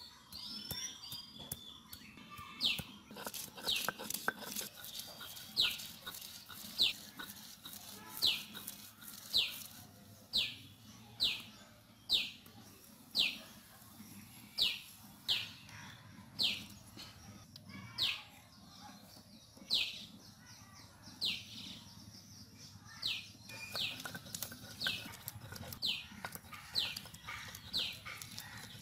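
A bird calling over and over, a short high whistle falling in pitch, about once a second. Under it, the low scraping and knocking of a stone roller crushing and grinding ginger on a stone grinding slab (sil-batta).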